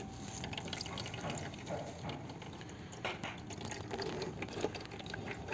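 Used engine oil pouring and trickling out of a removed oil filter, steady throughout, with a few light clicks.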